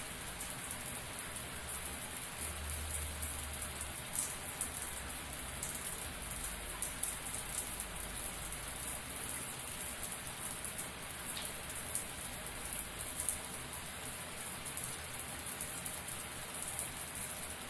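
Shower running steadily: a constant hiss of falling water, with many small drops spattering.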